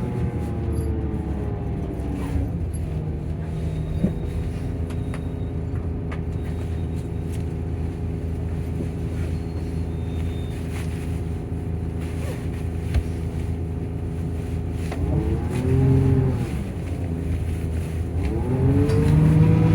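Diesel engine and cooling fan of a Volvo coach with Plaxton bodywork running. The engine note drops at first and settles to a steady run, then rises and falls twice: once about 15 seconds in and again near the end.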